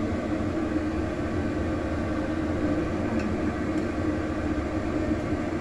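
A steady mechanical drone with a constant low hum, as from a motor or machinery running without change.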